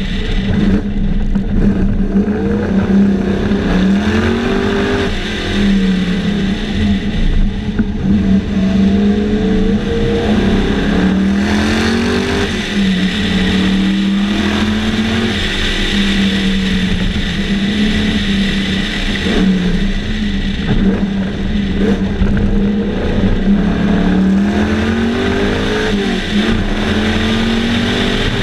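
Sunbeam Tiger race car's Ford V8 heard from on board at racing speed, its note climbing under acceleration and dropping back several times through gear changes and lifts for corners.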